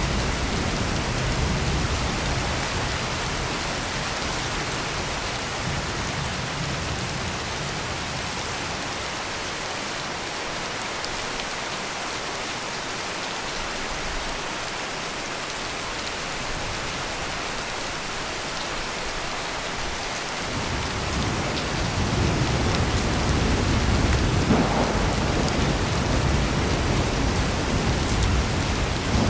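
Heavy rain pouring steadily in an even hiss, with low rolling thunder fading out at the start and building again about two-thirds of the way through.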